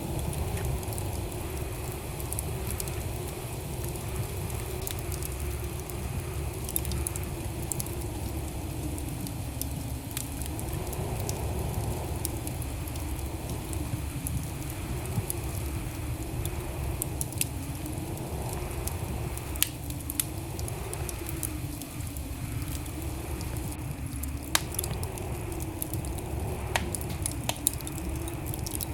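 Wood fire burning in a fireplace: a steady low rumble of flames with sharp crackles and pops scattered irregularly throughout, and a faint wavering hum underneath.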